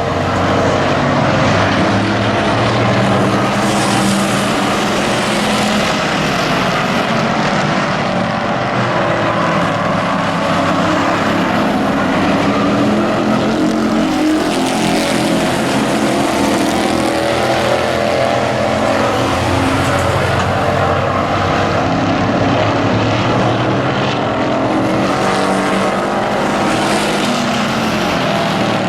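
Engines of several race trucks running together at racing speed, loud and steady throughout.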